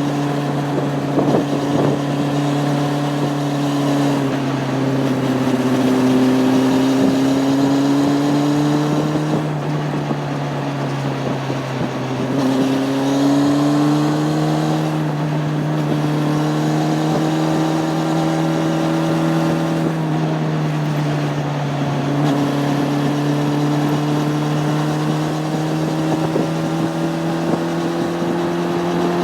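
Honda CB600F Hornet's inline-four engine running under way, its note dropping and climbing several times as the rider rolls off and opens the throttle through the bends, with wind noise over the microphone.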